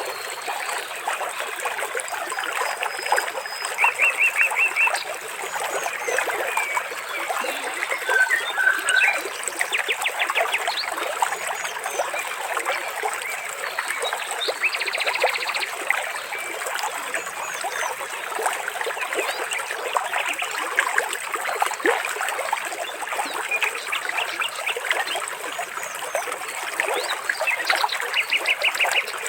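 Water trickling and splashing steadily, with birds calling over it: short rapid trills every few seconds and scattered chirps.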